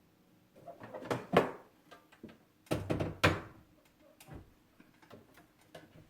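Kitchen items being handled and set down: two short bursts of clattering and knocking, about a second in and about three seconds in, with a few lighter knocks between.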